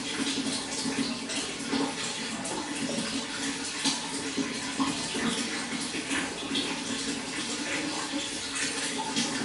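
Water running and splashing steadily, a continuous wash full of small quick splashes.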